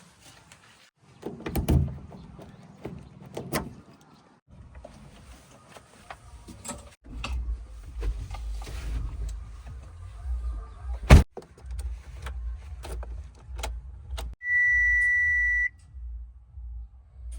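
Low diesel engine rumble of heavy earthmoving machinery working, broken by abrupt cuts, with scattered clanks and one loud sharp bang about eleven seconds in. Near the end a steady high-pitched beep sounds once for over a second.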